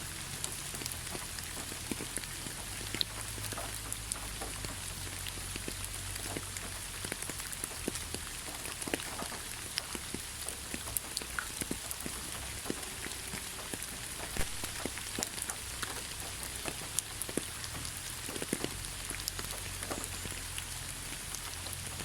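Heavy rain falling steadily, a constant hiss with many separate drops ticking on a surface, over a low rumble.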